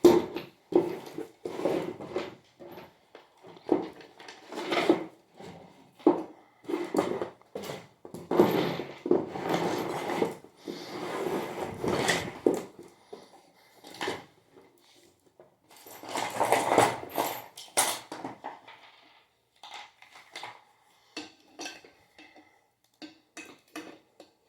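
Metal ceiling-fan parts clanking and clinking as they are handled and fitted together: irregular knocks with a few longer rattling stretches, thinning to scattered light clicks near the end.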